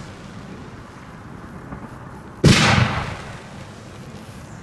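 A single loud firework bang from a display fired at close range, about two and a half seconds in, trailing off over about a second.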